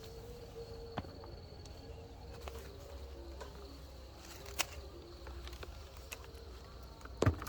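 Faint outdoor ambience with a few sharp clicks, the loudest near the end.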